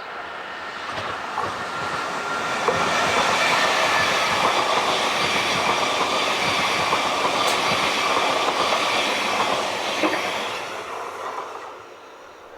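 A train passing close by: it builds up over about three seconds, holds steady at full loudness, then fades away near the end, with a few wheel clicks over the rails.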